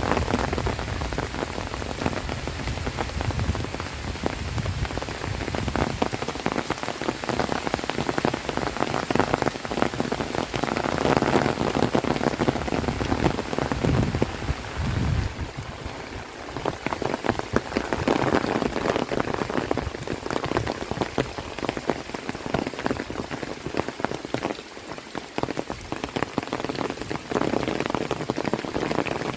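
Heavy rain falling, a dense patter of countless drops that swells and eases a few times.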